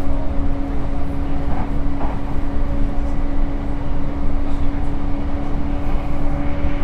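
Interior running noise of a JR East E235-1000 series electric train at speed: a steady low rumble of wheels on rail with a constant hum.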